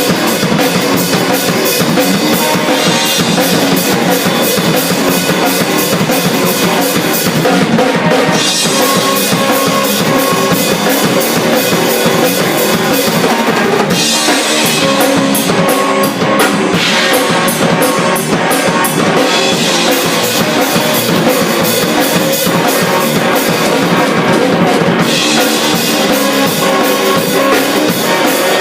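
Drum kit and guitar playing an improvised rock jam: fast, dense drum and cymbal hits with bass drum over sustained guitar notes.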